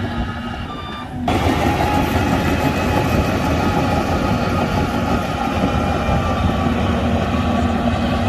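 Shantui DH17C2 bulldozer working, its diesel engine running steadily; about a second in the sound jumps suddenly louder and stays loud.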